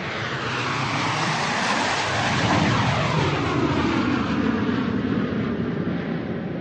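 Airplane flying overhead, a loud steady rushing noise that swells and falls in pitch as it passes, loudest about two and a half seconds in.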